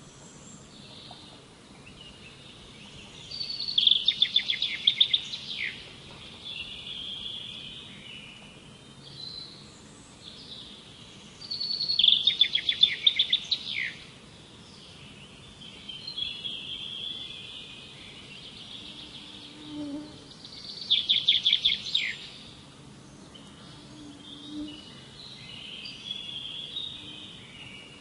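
Songbirds singing: one bird repeats a loud, fast run of high notes lasting about two seconds, three times at intervals of roughly eight seconds, while other birds chirp more softly in between.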